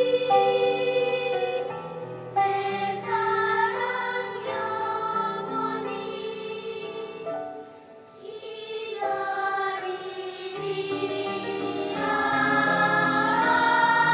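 Children's choir singing held notes in several parts; the sound fades to a soft passage about eight seconds in, then swells louder again.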